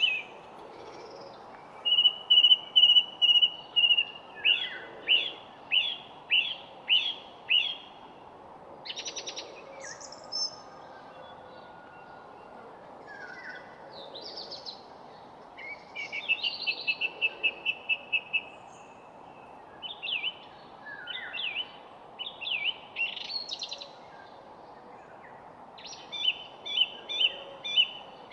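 Songbirds singing: series of repeated chirping notes and fast trills, one after another, over a steady background hiss.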